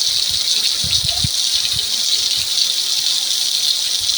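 Heavy rain pouring down in a steady, loud hiss, with a few brief low thumps about a second in.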